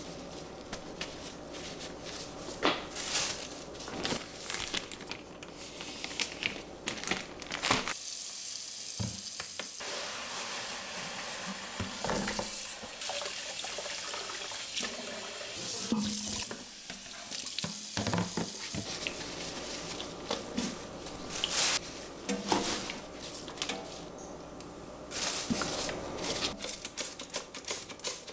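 Water running from a tap into a kitchen sink, with scattered clicks and knocks of things being handled. The sound changes abruptly several times.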